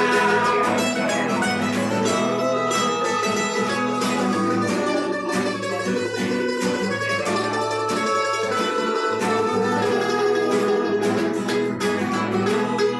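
Acoustic guitar music, an instrumental passage of a song with quick plucked and strummed notes over ringing chords.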